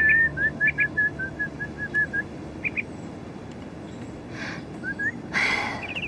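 A caged songbird chirping. It gives a rising whistle, then a quick run of short chirps, about eight a second, for a couple of seconds, with a few scattered chirps after. Soft rustling is heard near the end.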